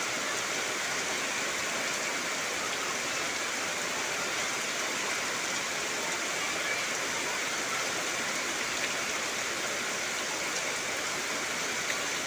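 Heavy rain falling steadily, a dense even hiss with no pauses or separate drops standing out.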